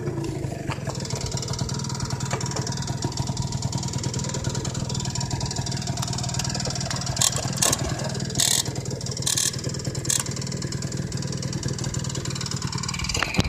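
Yamaha JOG80 two-stroke scooter engine, fitted in a JOG50 Pelican, idling steadily. A few short hissing noises come about halfway through.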